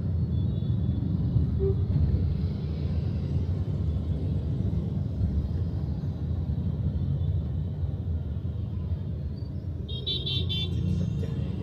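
Steady road and engine rumble of a vehicle riding through traffic, with a vehicle horn tooting in a few quick beeps near the end.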